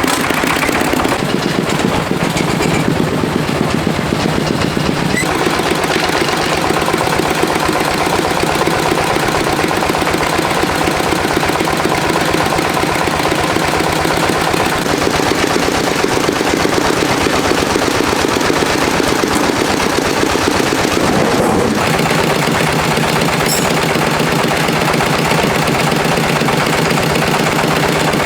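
Farm tractor's diesel engine running close by, a loud, rapid, steady chugging; its note shifts a few times.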